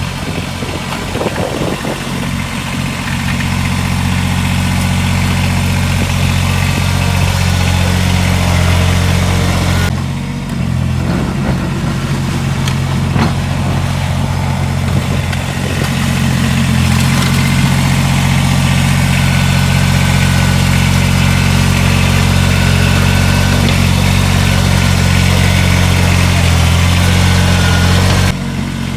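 Kubota BX2380 sub-compact tractor's three-cylinder diesel engine running steadily, its note dipping briefly about ten seconds in and falling off suddenly near the end.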